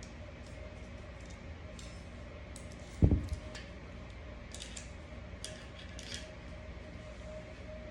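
Light metallic clicks and taps of small pistol parts being handled during cleaning, with one dull thump about three seconds in.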